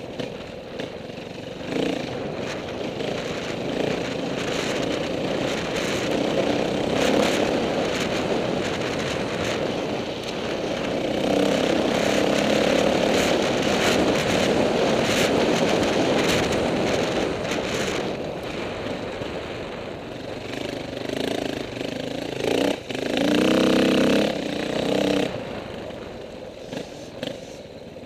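Dirt bike engine running under way, with the throttle opening and closing and the engine note rising and falling. It is loudest through the middle and revs up and back down near the end.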